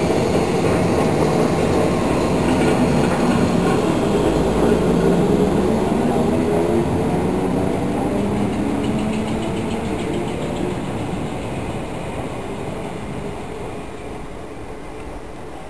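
Southern electric multiple unit pulling out past the platform, its traction motors whining in several rising tones as it accelerates, over the rumble of wheels on rail. The sound slowly fades in the second half as the train draws away.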